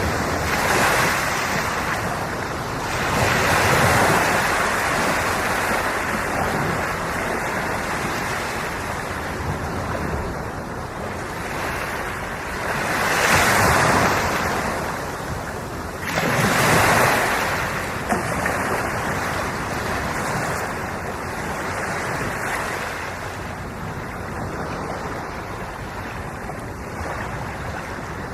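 Sea waves rolling in and breaking on the shore: a continuous rushing wash that swells and falls every few seconds, with four bigger breaking surges.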